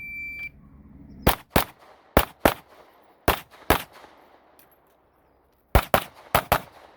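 Electronic shot timer's start beep, then an Open-division Glock 17 9mm pistol firing six shots in three quick pairs, a pause of about two seconds, and another fast string of about six shots near the end.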